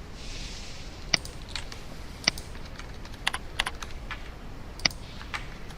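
Scattered, unhurried clicks of a computer keyboard and mouse as a dimension value is selected and retyped, about eight to ten separate clicks.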